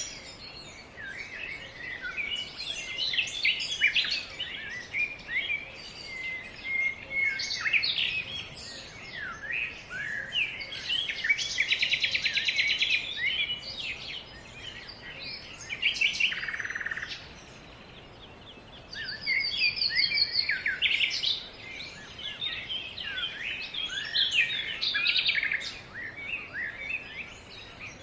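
Several songbirds singing and calling over one another: quick chirps, whistled notes and trills, with a dense rattling trill about eleven seconds in.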